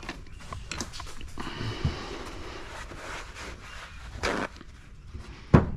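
Workbench handling noises: scattered clicks, a scrape and light clatter, with one sharp knock near the end.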